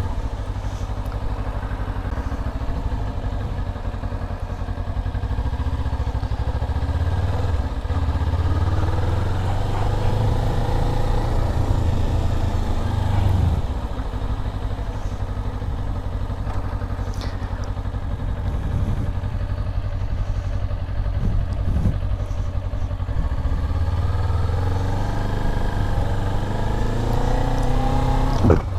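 Motorcycle engine running as the bike is ridden, the engine note climbing as it accelerates about eight seconds in, dropping off around thirteen seconds, and climbing again near the end. A sharp click comes just before the end.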